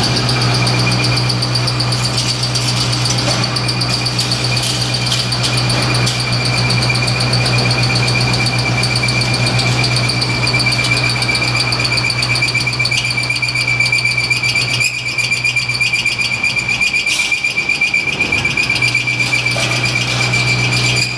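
High-frequency welded pipe mill running: a steady low hum under a constant high-pitched whine, with a few scattered clicks and rattles.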